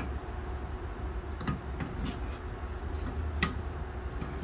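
A few light metallic clicks as cut steel leaf-spring pieces are set in place against each other, about one and a half, two and three and a half seconds in, over a steady low hum.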